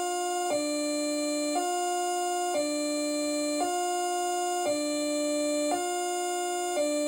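ACA Hurricane MK1 electronic siren sounding a hi-lo signal: two tones, each with many overtones, alternating about once a second.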